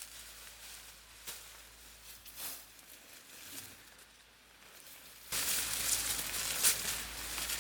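Faint rustling with a few soft clicks, then from about five seconds in a sudden, louder hissy rustling with crackles.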